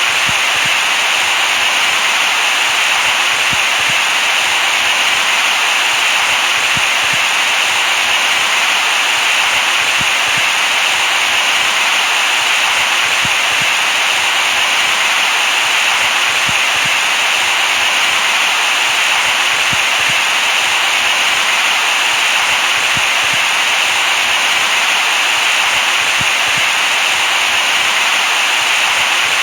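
Steady white noise for soothing a baby to sleep: an unbroken hiss, brightest in the upper middle range, that never changes in level.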